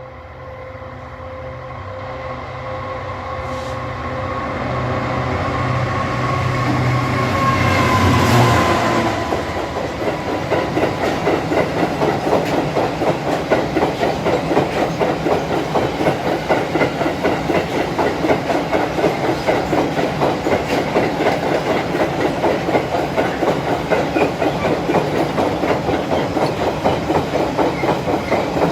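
Class 66 diesel locomotive with its two-stroke V12 engine approaching and passing, growing louder to a peak about eight seconds in, its engine note dropping in pitch as it goes by. After it, a long rake of car-carrier wagons runs past, wheels clattering over the rail joints in a fast, steady clickety-clack.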